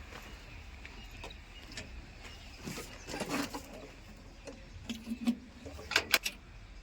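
Faint, steady low rumble of an idling diesel engine from the backhoe loader or a tractor, with scattered short clicks and knocks.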